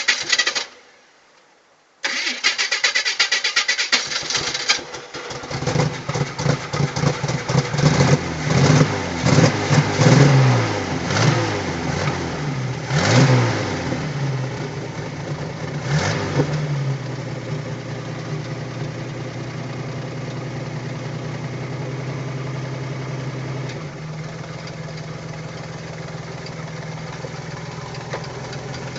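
Homemade tractor's engine being cranked by the starter, stopping for a moment, then cranked again until it catches about five seconds in. It is revved unevenly several times, then settles into a steady run.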